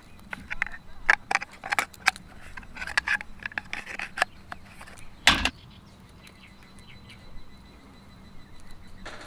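A run of sharp clicks and knocks, the loudest a single heavy knock about five seconds in, followed by a quieter stretch.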